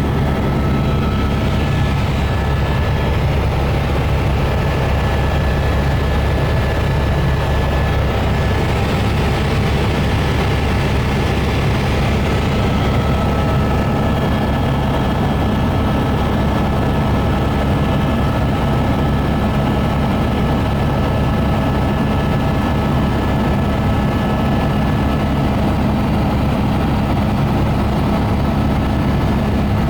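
Helicopter rotor and turbine running steadily in flight, a deep rotor beat under a constant high turbine whine.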